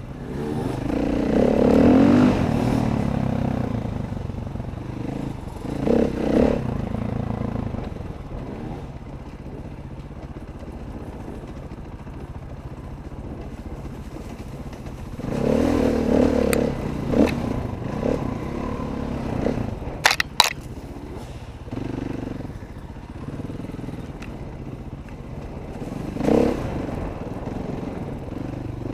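Dirt bike engine, throttled up and eased off repeatedly, loudest in swells a couple of seconds in and again about halfway through. A pair of sharp clacks about twenty seconds in.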